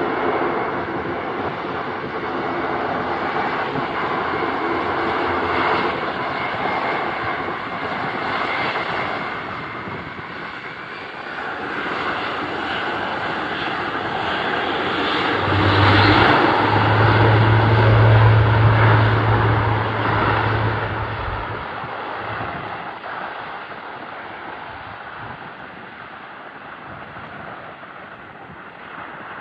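Airbus A400M Atlas's four turboprop engines running as the aircraft passes. The sound builds to its loudest about halfway through, with a strong low propeller hum for several seconds, then fades away.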